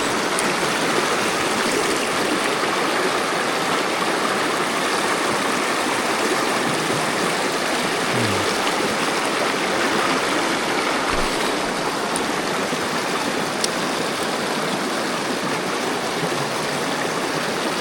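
Mountain stream rushing over rocks: a steady, even sound of running water.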